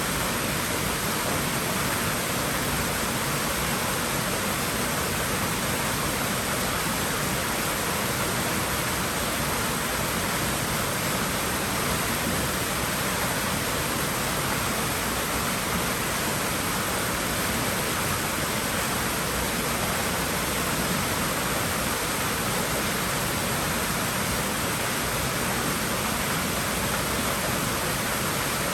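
Steady rush of water in a swimming pool, an even, unbroken splashing hiss like a small waterfall.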